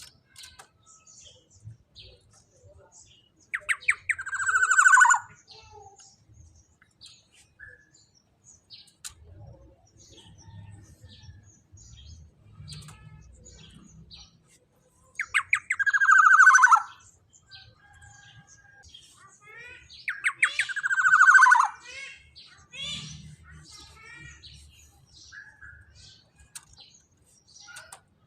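Black-naped oriole (kepodang emas) giving three loud, harsh calls, each about a second and a half long and falling in pitch. Softer short chirps and notes come between them.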